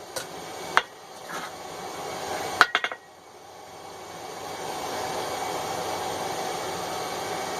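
A few sharp metallic taps and clinks on small hand-forged tongs as their heads are adjusted, bunched in the first three seconds. Then a steady rushing noise swells from about three seconds in and holds.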